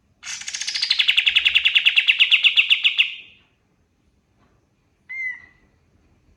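Kapas tembak songbird singing a fast rattling trill of about a dozen notes a second, dropping in pitch at the start and then holding steady for about three seconds. One short call follows about two seconds later.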